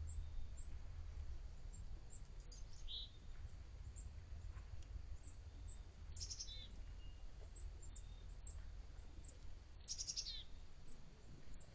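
Wild songbirds calling: a short call about three seconds in, then two louder calls that fall in pitch about six and ten seconds in, with scattered high chips between, over a steady low rumble.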